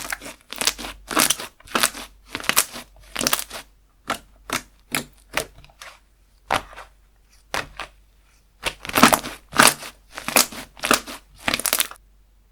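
Slime being pressed and squeezed by hand: a run of about twenty crisp, crackling squishes, with a short lull midway, stopping shortly before the end.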